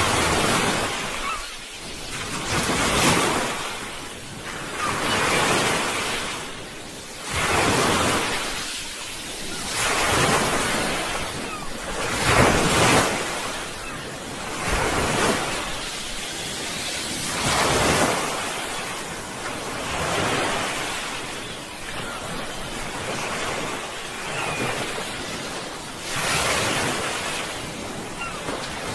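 Sea waves breaking and washing on the shore, the surf swelling and fading every two to three seconds.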